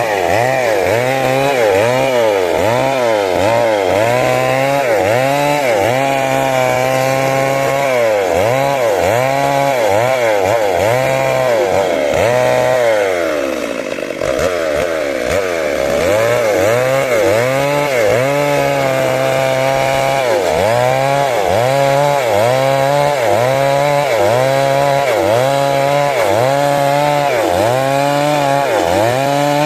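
Stihl MS 382 two-stroke chainsaw cutting wood at high revs. Its pitch dips and recovers about once a second as the chain bites and eases. About halfway through, the engine bogs down lower for a couple of seconds under heavier load, then picks back up.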